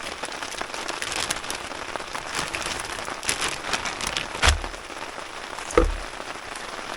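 Steady rain pattering on a surface, with scattered sharp drop ticks. Two dull thumps, about four and a half and six seconds in.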